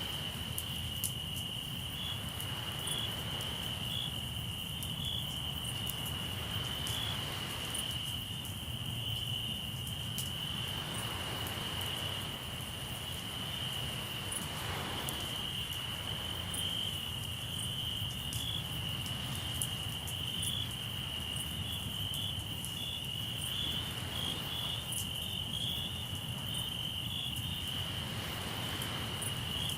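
Crickets trilling steadily in one high continuous chirp, with a campfire crackling in scattered sharp pops and a low steady rumble of the sea, swelling softly every few seconds.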